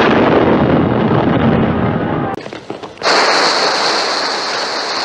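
A sudden loud explosion at the start, its noise lasting about two seconds. After a short break comes a steady hissing noise with a high whine running through it.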